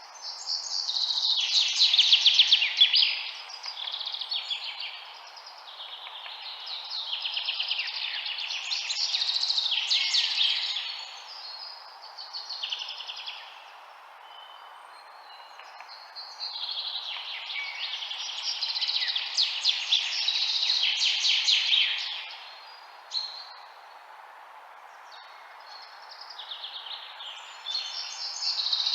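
Songbirds singing in bursts of rapid, high chirping phrases a few seconds long, with short pauses between, over a steady background hiss.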